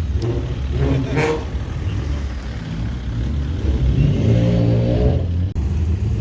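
Car engines running, with a low rumble throughout and one engine revving up, its pitch rising, about four seconds in.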